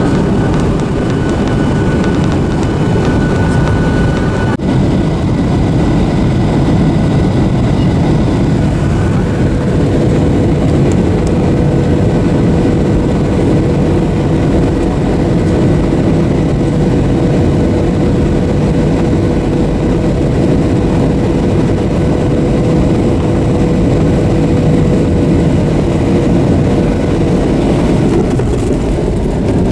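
Steady jet cabin noise of a Boeing 737-800 with its CFM56 turbofans running, an even rush heard from inside the passenger cabin. A faint high whine drops out a few seconds in, and a steady lower hum comes in later.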